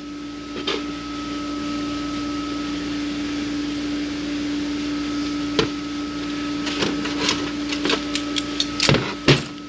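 Light metallic clicks and clinks from Ford AOD automatic transmission parts being handled and taken apart, a few scattered and then a quick run of them in the last three seconds, over a steady background hum.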